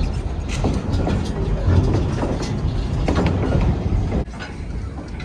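A passenger train rolling along the track, heard from aboard: a steady low rumble with irregular clacks from wheels and rail joints. It gets noticeably quieter about four seconds in.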